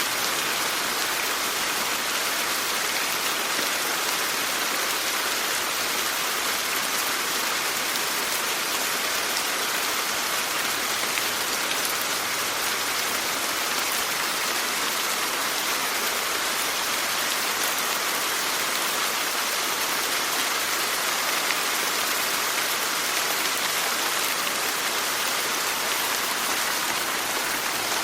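Steady rain falling, an even hiss with fine patter of drops, unchanging throughout.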